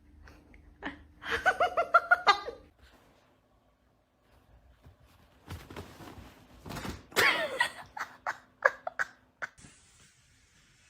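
A person laughing in short bursts, once about a second in and again in a longer run of laughs later on.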